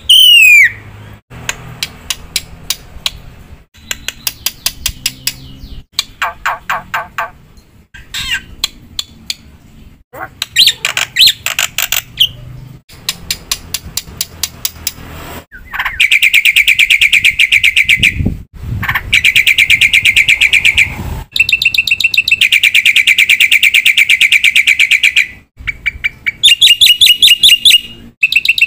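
Black-winged myna singing loudly in a varied song: quick series of rapid chips and chatters, then two long, fast rattling phrases of several seconds each about halfway through, and more chattering near the end.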